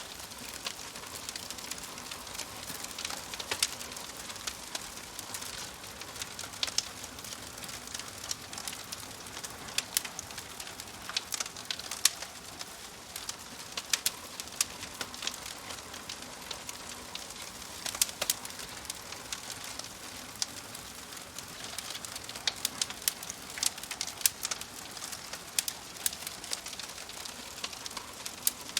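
Wood fire crackling: irregular sharp snaps and pops over a steady soft hiss.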